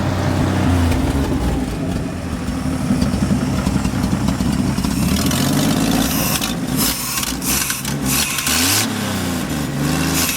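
1962 Ford F-350's engine running on its own after being revived, with a few bursts of hiss in the middle and the revs rising and falling near the end as the throttle is worked. The accelerator pump is shot.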